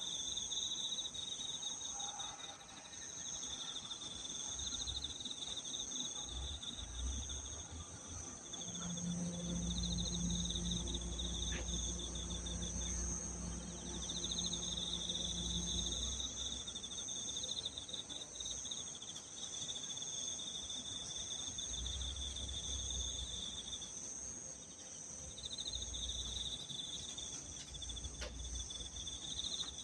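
Chorus of crickets and other insects singing: a pulsing trill that comes and goes over a steady high-pitched ringing. A low hum joins for several seconds in the middle.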